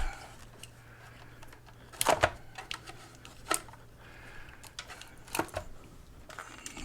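Scattered clicks and knocks from mobility-scooter batteries and their plastic battery case being handled and fitted, with a loud double knock about two seconds in.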